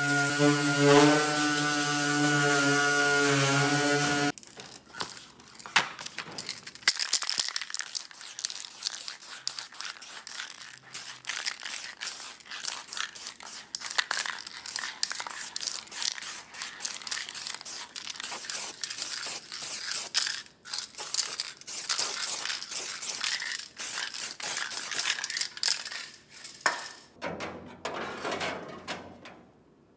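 An electric drill runs steadily and stops about four seconds in. A long, uneven crackling and sizzling follows, with short breaks: MIG welding on the Beetle's sheet-metal body panels. It dies away near the end.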